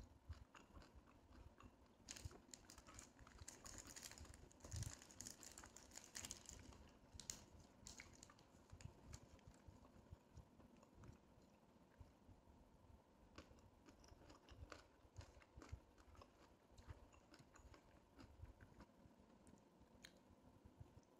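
Quiet, close-up chewing and biting of food (chicken shawarma and fries), with small wet mouth clicks and a denser, crackly stretch a couple of seconds in.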